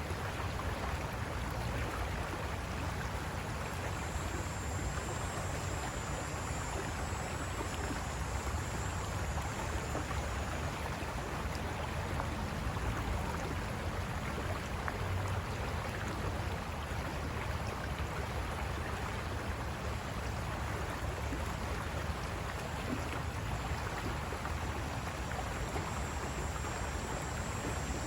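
River water rushing and splashing over rocks, a steady even noise with a strong low rumble.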